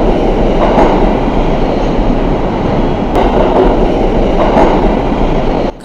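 Subway train running along the rails, a loud steady noise of wheels on track that cuts off suddenly near the end.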